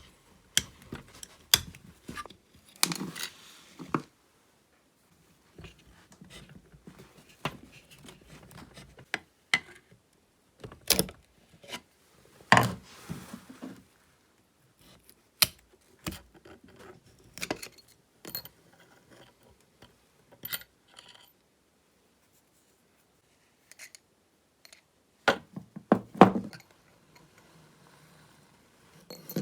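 Hand tools and small metal parts clicking, knocking and scraping while a chainsaw is taken apart on a workbench. The sounds come as a string of short separate strikes and scrapes with silent gaps between them, the loudest around three, eleven, thirteen and twenty-six seconds in.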